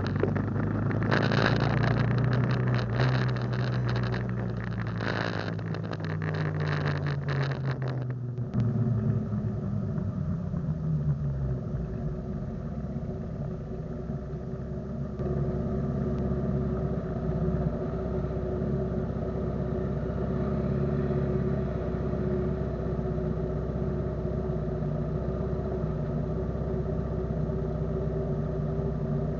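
Motorcycle engine running, its pitch slowly falling over the first eight seconds under a rushing noise, then running on at a steady pitch.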